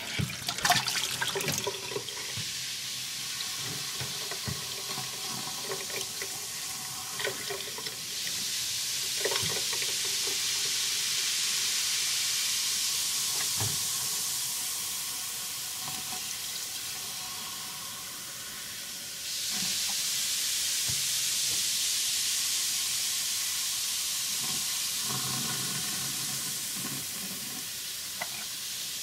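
Model volcano erupting: a steady fizzing hiss, with a few light knocks. It swells louder about eight seconds in and again near twenty seconds.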